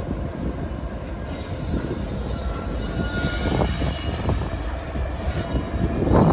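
Union Pacific train rolling past on the rails: a steady low rumble of wheels and cars with many small knocks and clanks, a faint high wheel squeal about halfway through, and louder clanking near the end.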